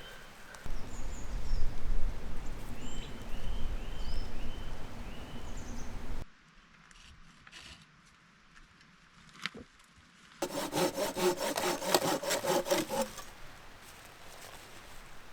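Hand saw cutting wood, in two bouts: first a coarse, heavy rasping, then, after a quiet gap with a single click, a quick run of even back-and-forth strokes at about four to five a second. Small birds chirp faintly in the background.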